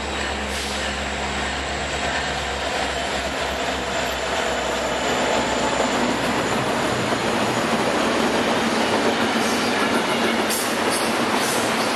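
A Norfolk Southern freight train passing at track side. A low diesel locomotive hum fades over the first several seconds into the steady rolling noise of freight cars on the rails, with a few sharp clicks near the end.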